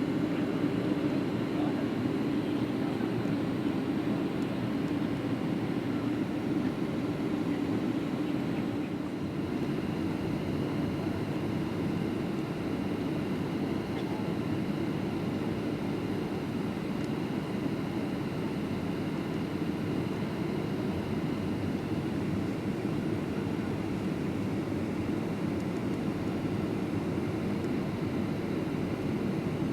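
Steady cabin noise inside a Boeing 737-700 in flight: a constant low rush of engine and airflow noise with a faint steady whine above it.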